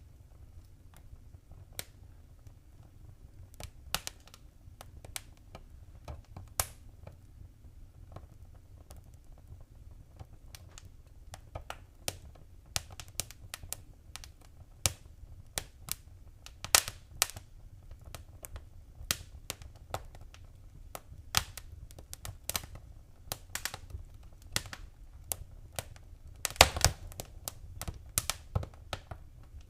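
Wood fire crackling: irregular sharp pops and snaps over a low steady rumble of the flames, getting busier about halfway through, with a quick cluster of pops near the end.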